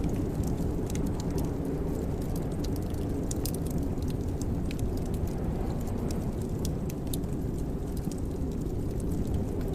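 Wood fire in a fireplace burning with a steady low rumble and irregular small, sharp crackles and pops.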